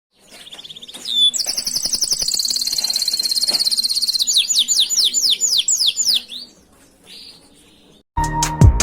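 Domestic canary singing: fast, high rolling trills, then a string of quick whistled notes that each slide downward. The song stops about six and a half seconds in, and music with a drum beat starts near the end.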